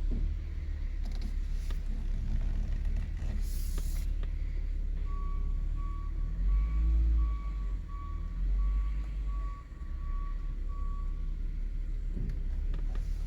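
Low rumble of a running vehicle engine. Midway, a backup alarm beeps steadily, about ten short even beeps over some six seconds.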